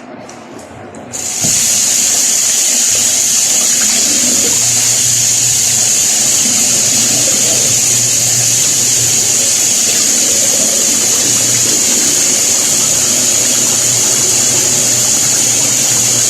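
Ariston washing machine running water on a test run after its clogged drain pump was cleared: a loud, steady rush of water with a low hum underneath. It starts suddenly about a second in and cuts off right at the end.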